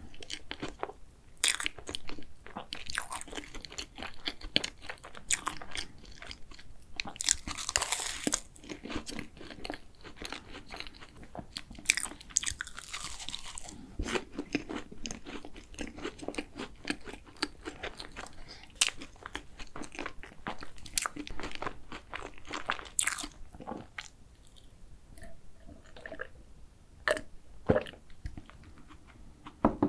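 Close-up crunching and chewing of a custard cookie choux, a choux pastry with a crisp cookie crust, with crackly bites and wet mouth sounds. Near the end the crunching thins out to a few soft swallows of a drink.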